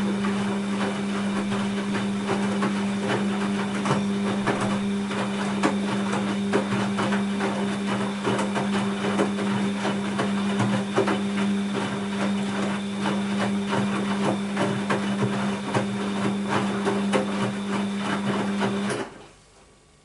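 Bosch WAB28220 washing machine tumbling its drum during a quick wash: a steady motor hum under a dense clatter of laundry and water turning in the drum, stopping suddenly near the end as the drum pauses.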